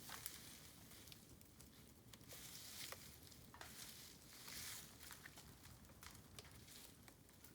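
Bamboo fire crackling with scattered sharp pops, and two short hissing swells partway through.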